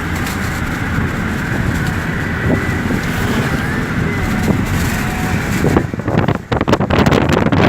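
Steady road noise of a moving vehicle, with wind buffeting the microphone, the buffeting growing stronger about six seconds in.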